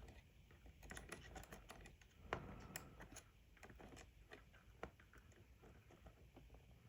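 Faint, scattered small clicks and taps of small parts being handled and fitted while a radio control head is reassembled, with two slightly louder clicks around two and a half and five seconds in.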